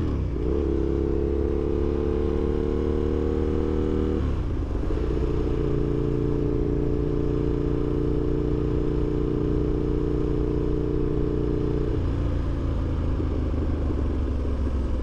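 Aprilia RSV1000 motorcycle engine running at steady revs while riding. The engine note steps to a new level about four seconds in and again near twelve seconds, as the throttle or gear changes.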